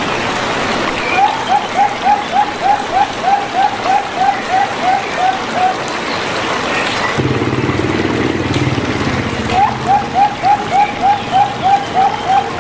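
Zebra dove (perkutut) cooing: a run of short, evenly spaced notes, about four a second, then a pause and a second run. A steady rush of water runs behind it, with a low hum in the gap between the two runs.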